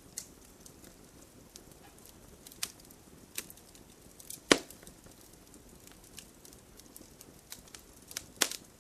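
Wood fire burning in a fireplace, crackling with scattered sharp pops over a soft low hiss. The loudest pop comes about halfway through, another near the end.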